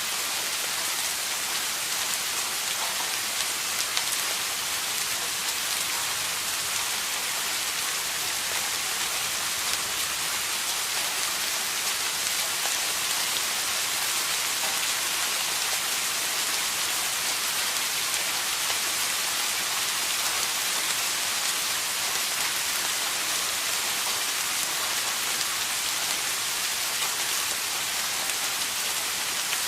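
Steady rain falling, an even hiss of many drops with no changes or thunder.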